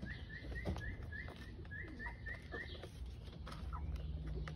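A bird chirping a quick run of short, rising notes, about four a second, that stops about three seconds in. Scattered sharp clicks from young hens pecking at feed, over a steady low rumble.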